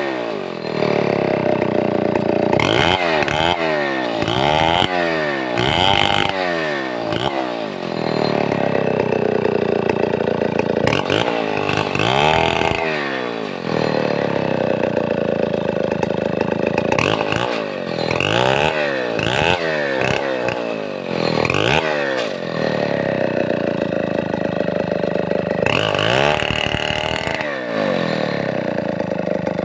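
Stihl 070 two-stroke chainsaw running loudly, its engine speed rising and falling again and again as the throttle is worked. There are runs of quick revs a few seconds in and again past the middle, and a longer high-revving stretch near the end.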